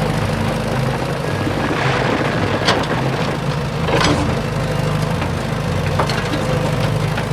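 A small motor running steadily, with a few sharp knocks about three, four and six seconds in.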